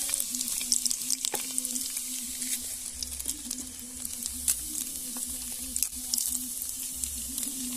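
Curry powder sizzling and crackling in hot oil in a pot: the Jamaican step of burning the curry. A steady high hiss with scattered small pops and one sharper click about a second and a half in.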